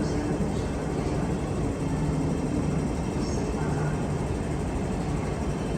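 Steady low rumble and hum of an MTR Q-Train, an electric metro train, in a station, without sudden events.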